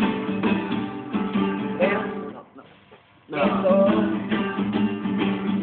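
Acoustic guitar strummed in a steady rhythm, dropping out for about a second near the middle and then starting again.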